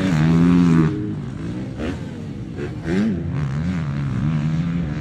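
Motocross bike engine revving hard, its pitch repeatedly rising and falling with throttle and gear changes. It is loudest in the first second, then drops back, with a quick rev-up about three seconds in.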